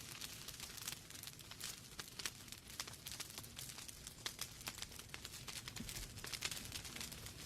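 Wood fire burning in a fireplace, with many small, irregular crackles and pops over a low, steady rumble of flame.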